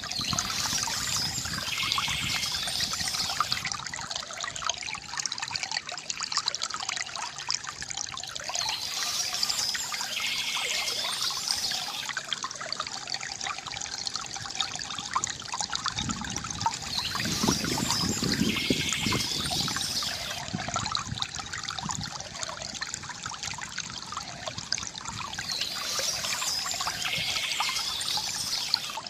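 Water trickling and splashing steadily from a bamboo fountain, with a deeper gush about two-thirds of the way through.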